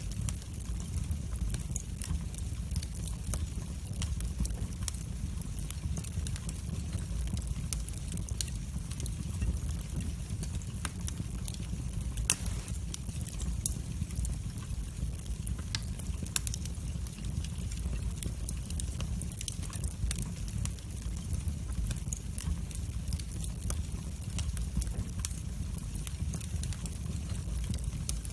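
Wood fire burning in a fireplace: a steady low rumble of flames with frequent irregular crackles and pops, one sharper pop about halfway through.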